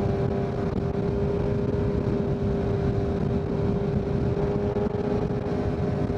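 2023 Kawasaki Z900's inline-four engine, fitted with a full Leo Vince exhaust, running at a steady engine speed while the bike cruises, its exhaust note holding one pitch over a dense low rumble.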